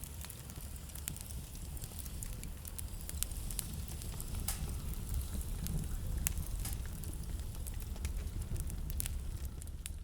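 Wood fire crackling in a fireplace: many small sharp pops and snaps scattered irregularly over a low steady rumble.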